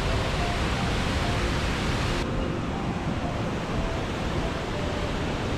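Mountain river rushing under a wedged-boulder bridge: a steady, even roar of fast water, which loses some of its hiss about two seconds in.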